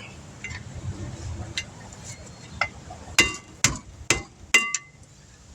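Steel hammer striking metal four times, about two blows a second, each hit ringing briefly, with a few lighter taps and clinks before them: knocking at a stuck, corroded brake part to free it.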